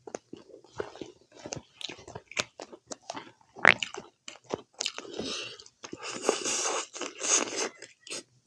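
Close-miked eating of pork curry with rice: wet chewing, mouth clicks and crunches, with one louder sharp smack about three and a half seconds in. There are a few stretches of breathy hiss in the second half.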